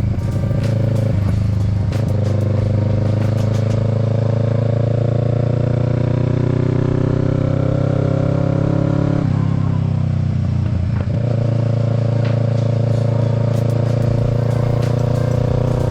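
Kawasaki Z650's parallel-twin engine pulling under way, its pitch slowly rising. It breaks off briefly about nine seconds in and again near eleven seconds, as a shift or throttle lift would do, then picks up and climbs again.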